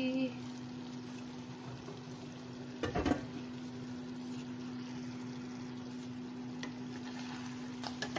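Beef ribs in spicy sauce sizzling and simmering in a pan over a steady low hum, with a single knock about three seconds in and a few small clicks near the end.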